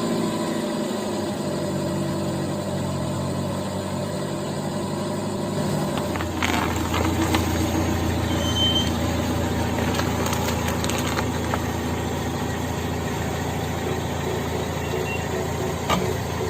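A car engine running steadily, its note shifting to a deeper, heavier hum about six seconds in, with a few light clicks and knocks over it.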